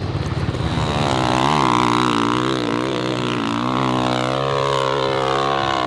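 Dirt bike engine running hard at high revs, its pitch rising and falling with the throttle.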